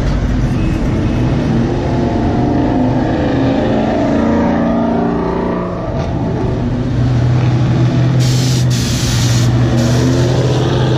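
Ford cars' engines running and revving as they pull out. The engine pitch rises and falls through the middle, and a heavier, steady engine note takes over from about seven seconds in.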